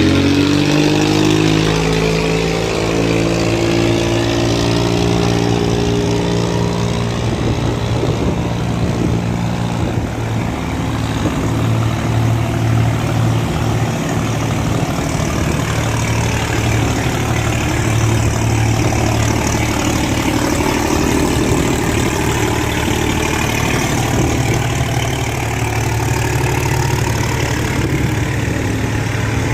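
Boat engines of cargo boats running under load as they push upstream against the current through an open sluice gate. Several engine tones at different pitches sound together over a steady hiss, their pitch shifting now and then as the throttles change.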